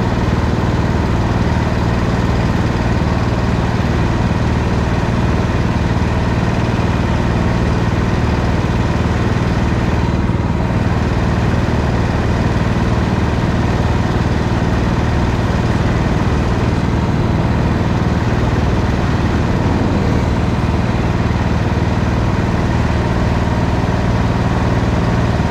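Go-kart engine running steadily with an even, droning note and little change in pitch.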